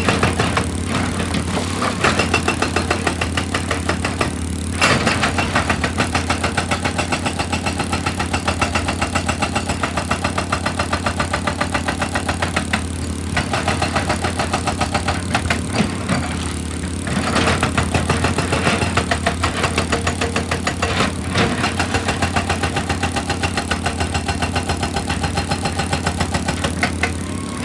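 A heavy machine hammering rock with rapid, evenly repeated blows over the steady drone of its engine. The hammering comes in runs of several seconds, with short pauses about 4, 13, 16 and 21 seconds in.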